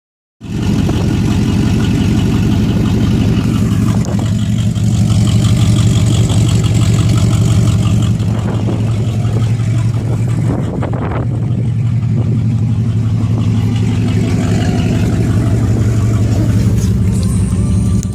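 Turbocharged Chevrolet Camaro engine running steadily, holding an even pitch throughout.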